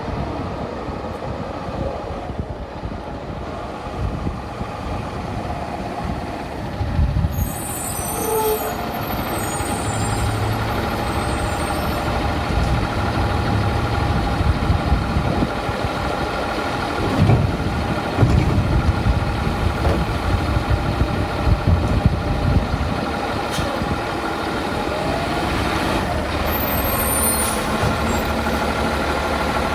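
Autocar side-load garbage truck's diesel engine running, with a steady hum and low rumble. Short high-pitched air-brake hisses come about eight seconds in and again near the end.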